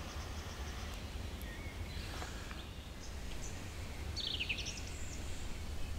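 Woodland ambience: a songbird singing a few short high phrases, the clearest a quick run of falling notes about four seconds in, over a low steady rumble.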